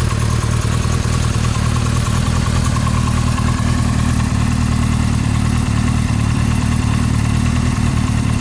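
Kawasaki Z1A's air-cooled 903 cc four-cylinder engine idling steadily through its exhaust, an even, low note that holds at one speed.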